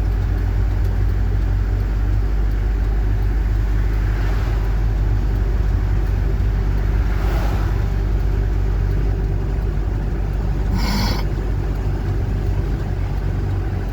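Code 10 truck's engine running steadily under way, with a constant low drone and road noise, heard from inside the cab. A short burst of noise comes about eleven seconds in.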